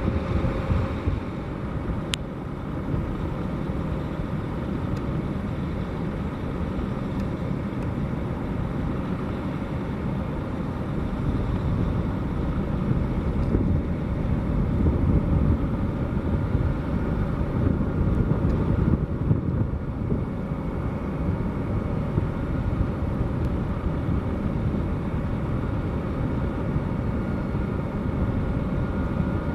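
Boeing 757-200's jet engines running steadily over a low rumble while it taxis, with a faint whine and growing a little louder in the middle before settling back.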